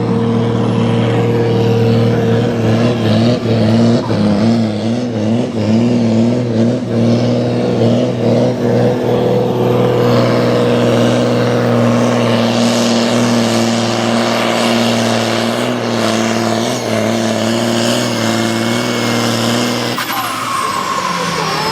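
Ursus tractor's diesel engine running hard at full load while pulling the sled. Its pitch wavers for several seconds, then holds steady, and the engine note falls away near the end.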